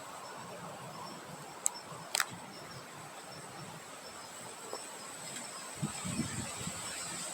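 Outdoor insect chorus: a steady high trill with a regular pulsing chirp about two to three times a second, over a faint hiss. Two sharp clicks come about two seconds in, and a few low thumps come near the end.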